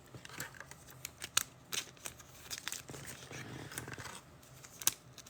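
Trading cards and plastic packaging being handled: soft rustling and crinkling with a few sharp clicks and taps, the loudest a little under a second and a half in and again near the end.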